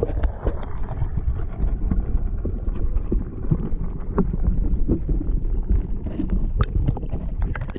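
Muffled sound of water around a camera held below the surface: a dense low rumble with many small clicks and knocks throughout.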